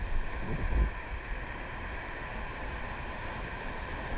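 River water rushing, with wind buffeting the microphone in low gusts a little under a second in.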